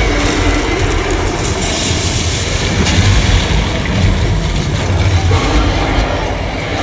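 Loud, continuous rumbling and rattling of a tour tram riding through a theme-park attraction, mixed with the ride's own sound.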